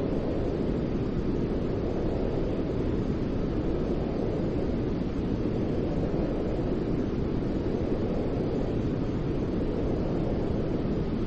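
Steady white noise: an even, unbroken rushing hiss, fullest in the low range, holding one constant level.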